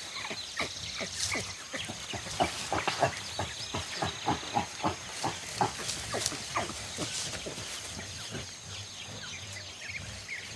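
Mountain gorillas close by: a fast, irregular run of short, sharp animal sounds, two or three a second, loudest in the middle, over a steady thin high insect whine.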